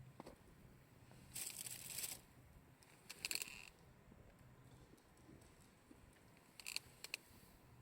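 Quiet wood campfire crackling: two brief rustling, crinkling bursts, then a few sharp pops near the end.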